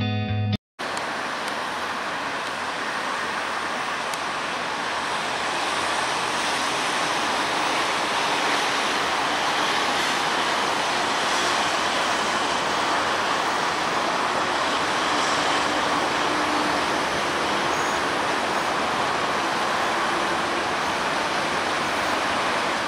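Diesel-hauled passenger train approaching: a steady rushing noise from the locomotive and the wheels on the track, growing a little louder over the first several seconds and then holding.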